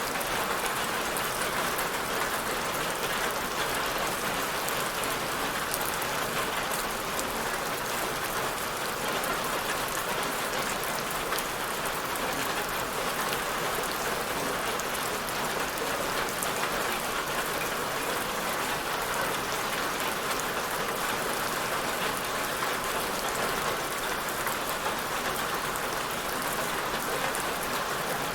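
Steady rain falling, an even hiss with many fine drop ticks and no change in level.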